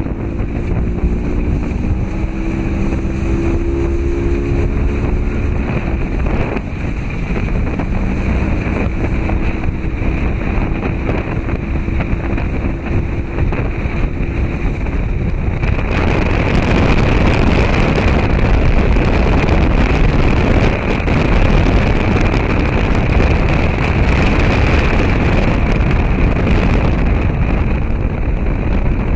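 A motor droning steady under wind and water noise on the microphone, the noise turning louder and hissier about halfway through.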